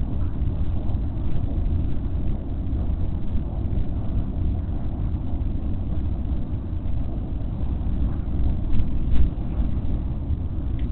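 Steady low rumble of outdoor background noise, even throughout, with no distinct calls or events standing out.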